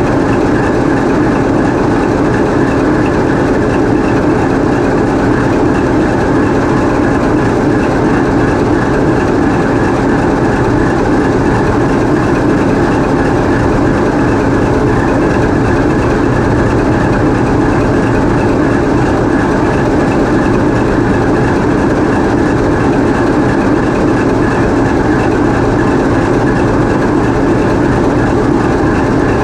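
TEP70 passenger diesel locomotive's 16-cylinder V diesel engine running steadily at constant speed, heard up close inside the engine compartment, during the locomotive's running tests after repair.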